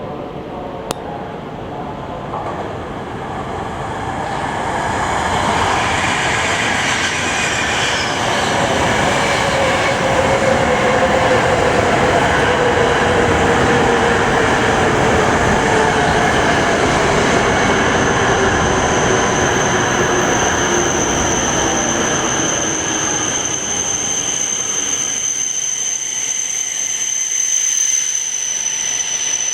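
Shinkansen bullet train pulling into the station platform. Its rumble builds and its motor whine falls steadily in pitch as it brakes to a stop. The rumble then fades, leaving a steady high whine from the stopped train.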